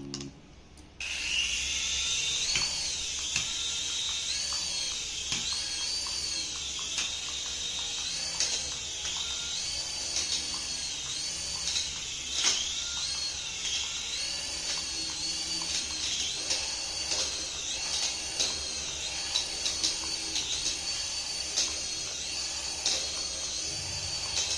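Small electric motor of a remote-control toy whining at high pitch, starting about a second in, its pitch rising and falling again and again as the throttle changes, with a few light clicks.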